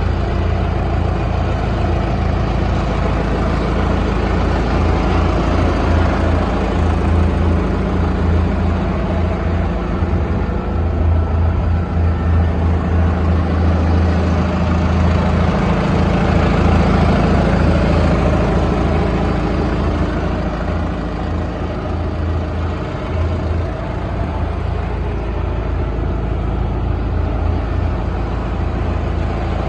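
The FPT engine of a Star SCH 60C trailer concrete pump running steadily. It gets a little louder around the middle and eases slightly about two-thirds of the way through.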